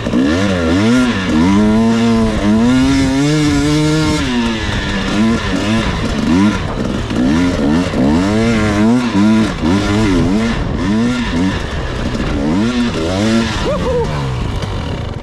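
Dirt bike engine being ridden, revving up and dropping back again and again, about once a second. The revving fades out near the end.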